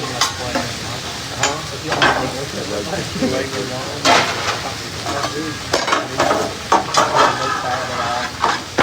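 Food sizzling and frying on a hibachi flat-top griddle, a steady hiss broken by frequent sharp clicks and scrapes of metal spatulas on the cooking surface.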